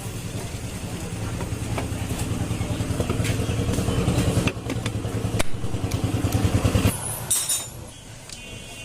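An engine running steadily and growing louder, then cutting off abruptly about seven seconds in, followed by a brief metallic clink.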